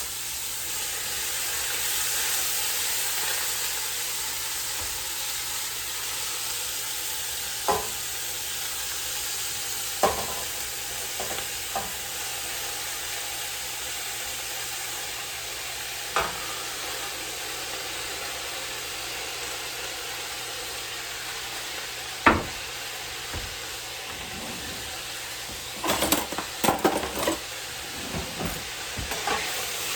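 Cabbage frying in hot oil in a pan, a steady sizzle, with a few knocks and scrapes of a utensil against the pan and a burst of them near the end as it is stirred.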